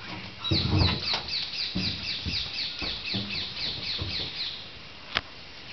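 A bird calling in a rapid run of short, falling high notes, about five a second for some four seconds, over low muffled sounds. A sharp click comes about five seconds in.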